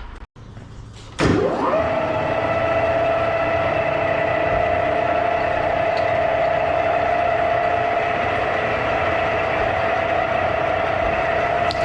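A power tool's motor switching on about a second in, spinning up quickly in pitch and then running at a steady high whine.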